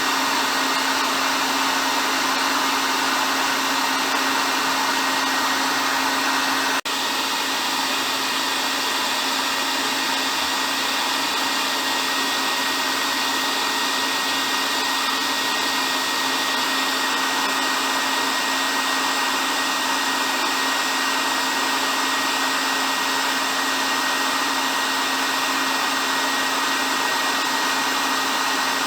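Hair dryer running steadily, a constant airy whoosh with a low motor hum and a faint high whine. There is a momentary dip about seven seconds in.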